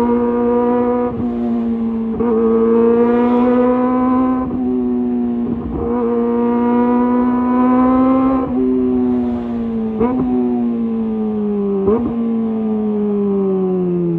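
Kawasaki ZX-25R's 250 cc inline-four running through a Leovince GP Evo high-mount exhaust: several pulls with the pitch climbing, each cut by a short break at a gear change. In the second half the revs fall away, with two short rev blips on the way down, typical of downshifts.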